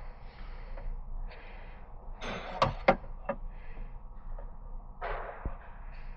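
Handling noises: brief rustles with a few sharp clicks and knocks, the loudest two close together about two and a half to three seconds in, and a dull thump near the end.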